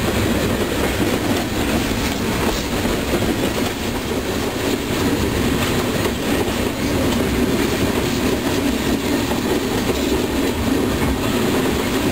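Freight train of tank cars rolling past: a steady rumble of steel wheels on rail, with the clickety-clack of wheels crossing rail joints.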